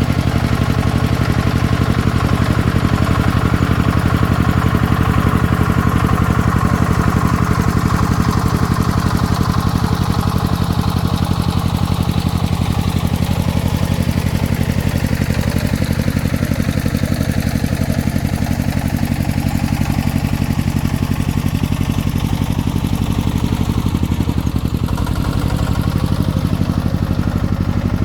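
Single-cylinder diesel engine of a công nông farm tractor running steadily, with a slight change in its note about 24 seconds in.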